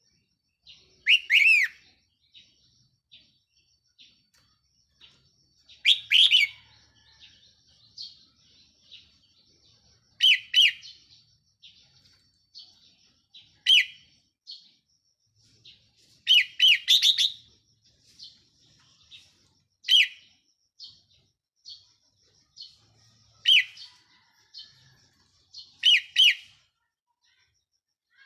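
Red-whiskered bulbul singing, kept as a caged decoy bird: short loud whistled phrases every few seconds, with fainter chirps in between.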